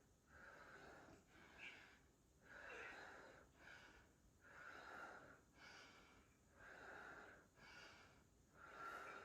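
Faint, hard breathing of a woman exerting herself through push-ups done to failure, one rasping breath about every second in a steady rhythm.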